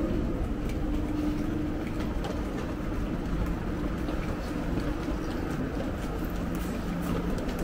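Steady low hum of a OUIGO high-speed train standing at the platform, with a few faint light clicks over it.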